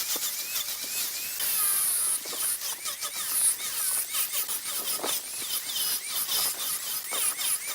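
Turning tool cutting a spinning wooden workpiece on a wood lathe: a steady scraping hiss with short, repeated squeals that rise and fall as the tool rubs the wood.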